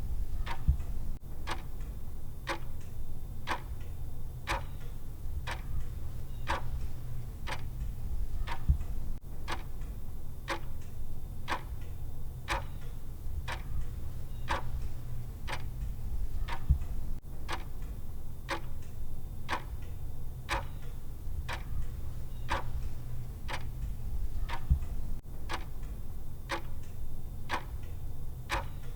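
Clock ticking sound effect of a countdown timer, evenly spaced ticks. A steady low hum runs underneath, with a soft low thump about every eight seconds.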